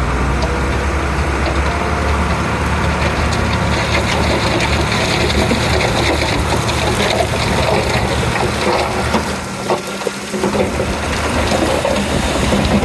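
Komatsu D31P crawler bulldozer working, its diesel engine running with a steady low drone and a rattling clatter over it. The sound drops briefly about ten seconds in, then picks up again.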